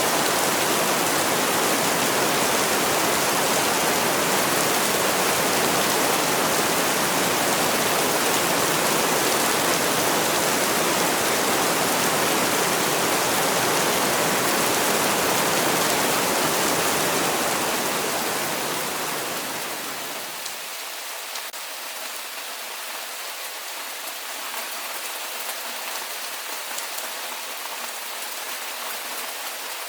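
Heavy, steady rain. A little over halfway through it fades over a few seconds to a lighter, thinner rain in which single drops tick out.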